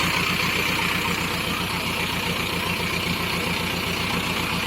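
Tractor diesel engine running steadily with a fast, even low pulse.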